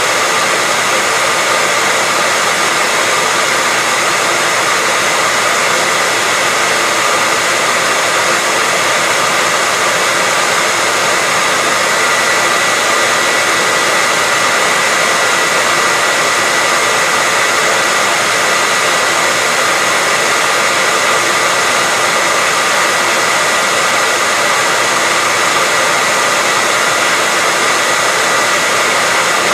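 Hair dryer running steadily, a constant even rush of air with a steady whine near 2 kHz, played as white noise to lull a baby to sleep.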